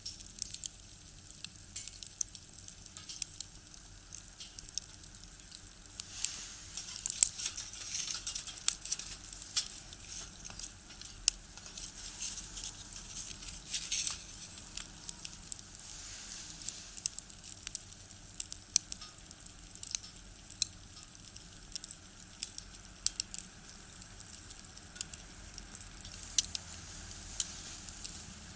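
Wood fire burning in a small box stove: irregular sharp crackles and pops of firewood over a soft hiss, with a busier run of pops in the first half.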